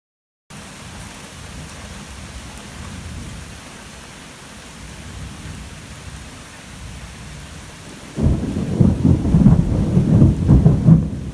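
Heavy rain pouring steadily. About eight seconds in, thunder breaks suddenly and loud and rolls on as a deep rumble.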